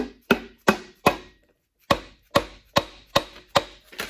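Dead blow hammer striking the front cover of a Case 188 diesel engine block to knock it loose, about ten sharp taps: four in quick succession, a short pause, then six more at the same pace.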